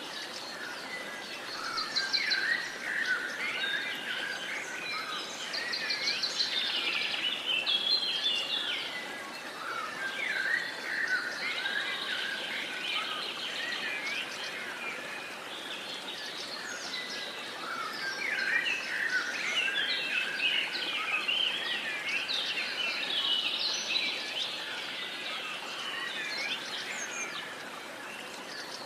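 Many songbirds singing at once, a dawn-chorus mix of overlapping chirps, trills and whistles, over a steady background hiss.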